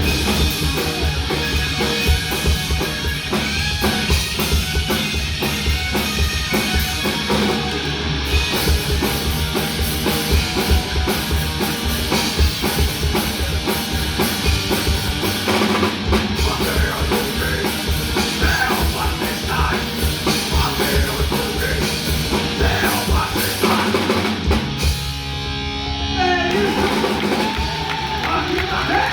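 Hardcore/thrash crossover band playing live: fast drum kit with heavy bass drum under distorted electric guitar and bass. About 25 seconds in the drums drop out, leaving a held chord.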